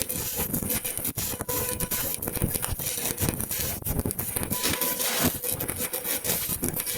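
Stick (shielded metal arc) welding arc crackling steadily, a dense continuous sputter.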